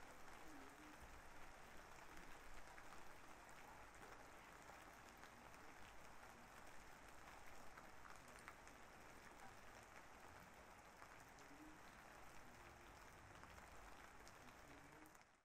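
Faint, steady rain with scattered drop ticks, cutting off just before the end.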